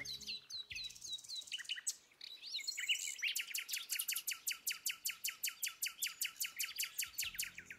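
Small birds chirping in quick downward-sweeping notes. They come scattered at first, then in a fast regular run of about eight chirps a second from about three seconds in until near the end.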